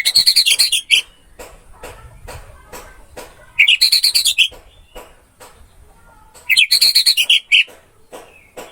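Orange-headed thrush (anis merah) singing: three phrases of about a second each, rapid high chattering notes, at the start, about three and a half seconds in, and about six and a half seconds in. Faint repeated clicks sound between the phrases.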